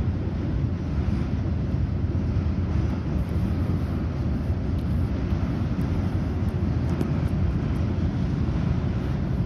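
Steady low rumble of a long intermodal freight train rolling across a railway bridge over open water, mixed with wind buffeting the microphone.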